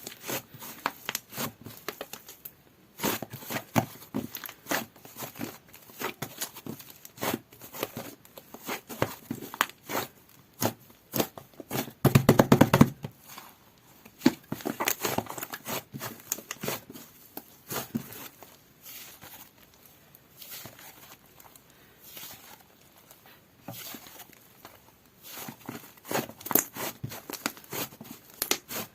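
Soft white butter slime being squished and kneaded by hand, giving irregular sticky clicks and pops, with a louder squelch about twelve seconds in.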